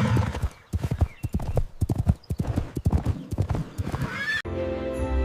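A horse: the end of a whinny fades out at the start, then its hooves clip-clop in quick, uneven strikes for about four seconds. Soft music cuts in suddenly near the end.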